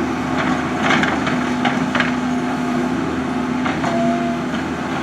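Track hoe (tracked excavator) engine running steadily under load while it digs, with several sharp metallic clanks from the bucket and tracks and a brief thin squeal near the end.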